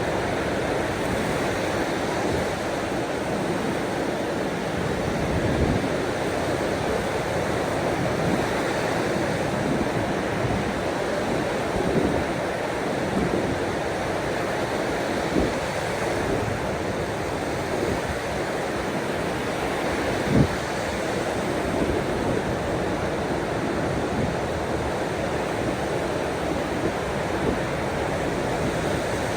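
Ocean waves washing on a shore: a steady rush of surf with a few short, louder splashes, the sharpest about two-thirds of the way through.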